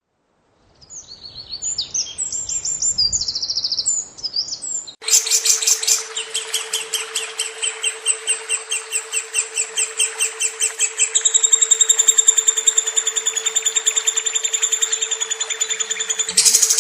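Lovebird song: a short spell of scattered high chirps, then a long, fast chattering trill of evenly repeated notes that speeds up about halfway through and grows louder near the end. A steady low hum runs under the trill.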